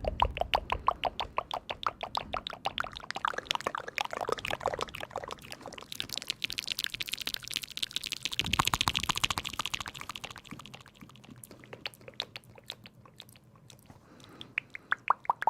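Rapid close-up tapping and clicking, several small clicks a second, with a denser crackling rustle a little past the middle.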